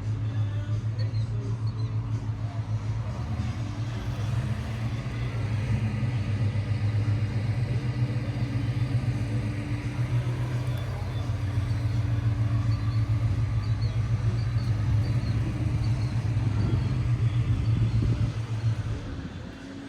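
A car engine idling with a steady low rumble, which stops shortly before the end.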